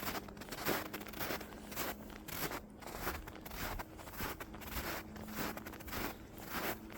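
Footsteps crunching in snow at a steady walking pace, about two steps a second. A faint steady low hum runs underneath in parts.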